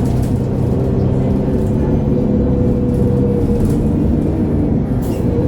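MAN A23 Lion's City G articulated city bus's diesel engine running steadily, heard from inside the bus: a low drone with a steady higher whine.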